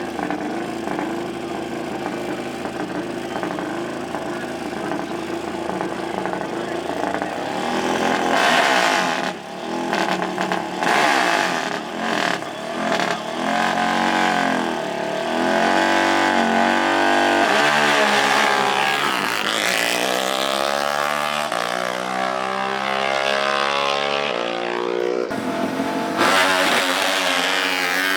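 Small off-road racing engines revving, their pitch climbing and dropping again and again. The sound grows louder about eight seconds in, and more than one engine overlaps later on.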